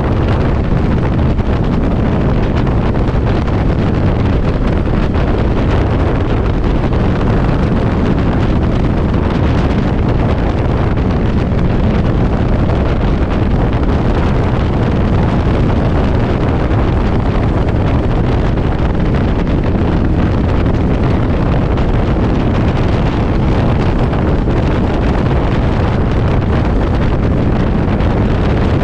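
Heavy wind buffeting the microphone while riding a Yamaha V-Star motorcycle at road speed, with the bike's V-twin engine running steadily underneath.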